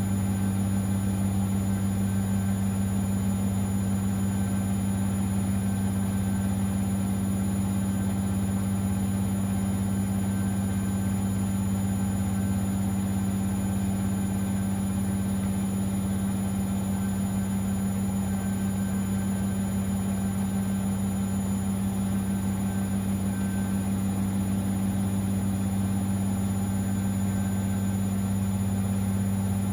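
Siemens XLS 140 A washing machine running with a steady, unchanging low hum.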